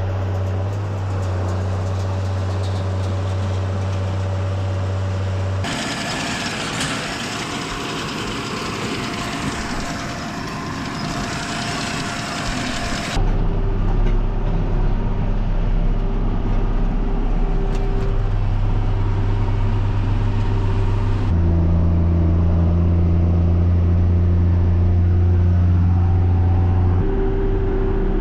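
Farm tractor engines running steadily under load, in short segments that cut abruptly from one to the next several times.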